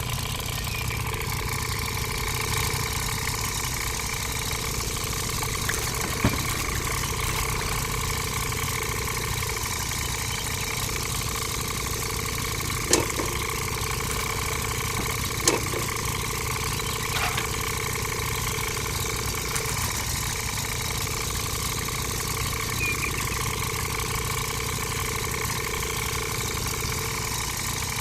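The small motor of a homemade mini toy tractor runs steadily with a constant whine. A few light knocks come through it about a quarter and halfway in.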